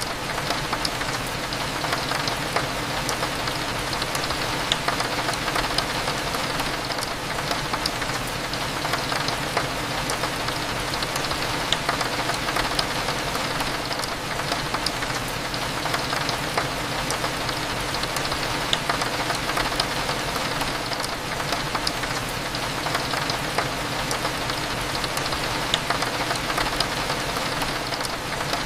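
Steady rain falling on a window, a dense patter of small drop ticks, over a low, even cafe hum.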